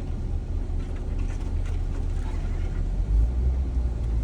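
A Jeep's engine and drivetrain rumbling low and steady while it drives a rough off-road trail, growing deeper and louder about three seconds in.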